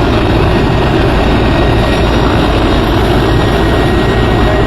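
Helicopter rotor and engine running, a loud, steady noise with no letup.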